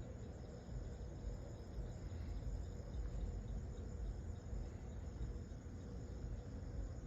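Crickets chirring steadily in the night, with a low steady rumble underneath.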